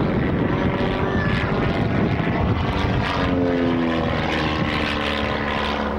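Propeller-driven aerobatic plane's piston engine running loudly overhead, its note dropping in pitch about halfway through as it passes by.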